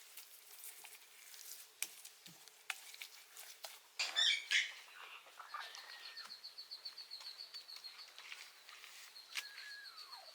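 Young puppies whimpering: a loud high squeal about four seconds in, short whines, and near the end a whine that falls in pitch. A rapid high chirping trill runs through the middle, over light scattered ticking.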